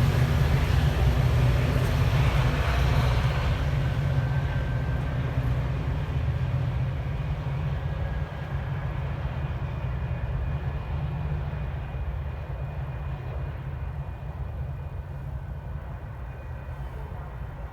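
Metra diesel commuter train pulling away, its locomotive engine rumble and the wheel noise fading steadily as it leaves.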